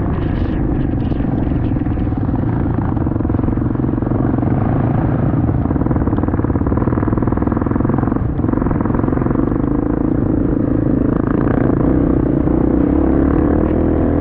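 Enduro motorcycle engine running steadily while riding, a continuous drone at an even pitch.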